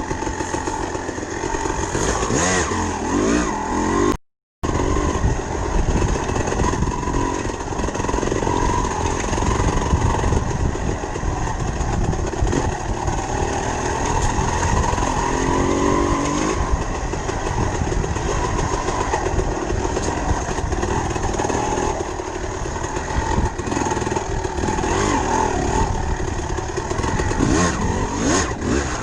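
Dirt bike engine running continuously, its pitch wavering with the throttle, under heavy low rumble. The sound cuts out completely for about half a second about four seconds in.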